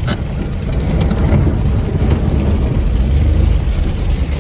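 Deep rumble of thunder that swells through the middle, over the steady noise of heavy rain.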